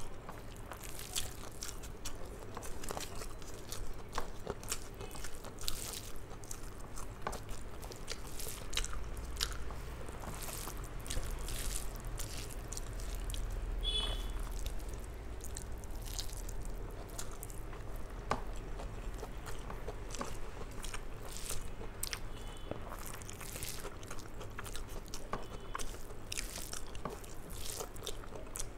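Close-miked chewing of hand-eaten rice: irregular wet mouth clicks and lip smacks, with fingers mixing rice and mashed ridge gourd on the plate. A brief high squeak is heard about halfway through.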